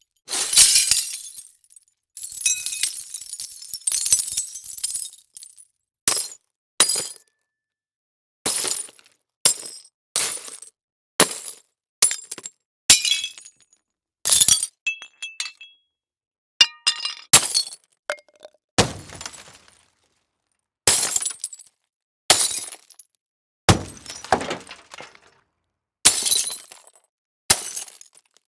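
A run of separate glass breaking and shattering sound effects, each a sudden crash with a tinkling tail, about twenty of them with short silences between. A longer stretch of falling, clinking shards comes about two to five seconds in.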